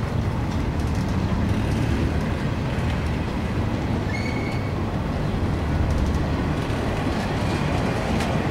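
Empty double-stack intermodal well cars rolling past close by: a steady rumble of steel wheels on rail, with a brief high squeal about halfway through.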